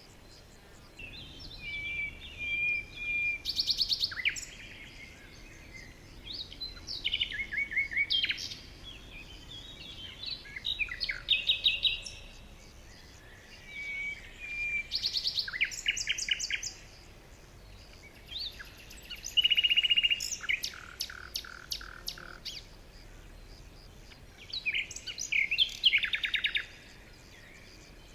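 Several songbirds singing in repeated bouts of chirps, trills and short whistled phrases, each lasting a second or two, with brief pauses between, over a faint steady background hiss.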